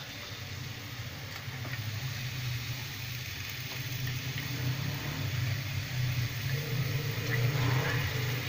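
Raw chicken pieces sizzling in hot oil and spice masala in a frying pan, with a steady low hum under it; the sizzle grows a little louder as the chicken heats.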